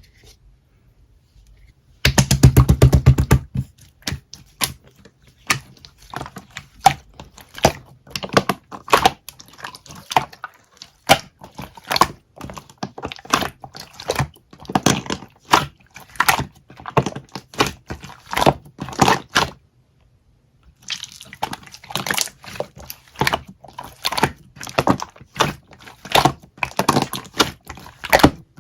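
Slime being squished and poked by hand, making a steady run of wet clicks and pops. A louder squelch comes about two seconds in, and there is a brief pause about two-thirds of the way through.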